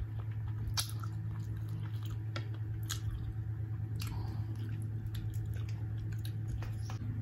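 Close-up eating sounds: a mouthful of spicy instant fried noodles slurped in and then chewed with the mouth closed, with short mouth clicks scattered through. A steady low hum runs underneath.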